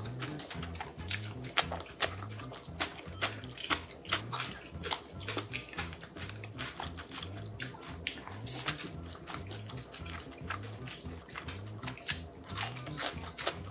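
Close-up eating sounds: chewing and biting with mouth noises, and chopsticks clicking against the bowls, over background music with a steady low beat.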